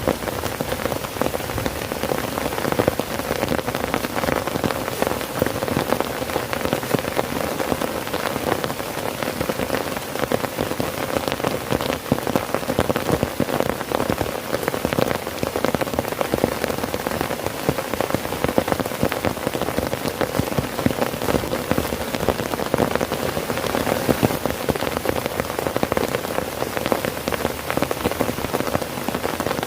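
Heavy rain drumming steadily on a tent, a dense patter of drops on the fabric.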